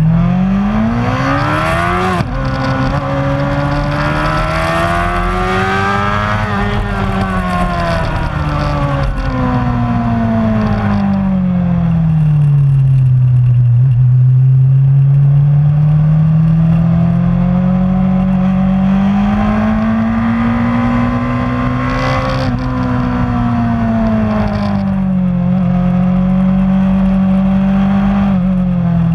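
Racing motorcycle engine running hard, climbing steeply in pitch over the first two seconds, then rising and falling slowly as it accelerates and slows.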